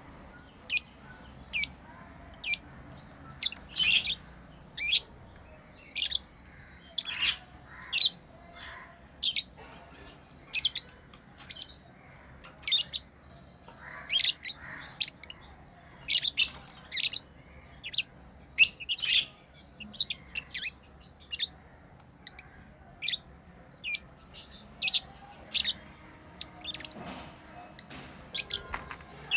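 Pet lovebirds chirping: a steady run of short, high-pitched chirps, one or two a second.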